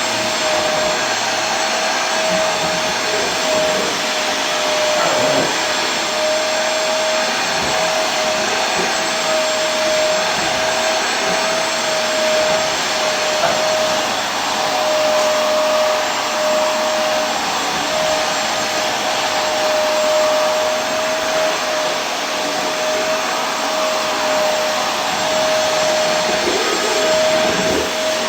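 Vacuum cleaner running steadily: a constant rushing air noise with a steady whine in it.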